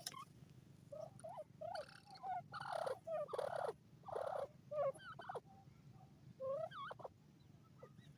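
Francolins (teetar) giving a string of short, soft calls that bend up and down in pitch, mixed with brief scratchy noises; the calls stop about a second before the end.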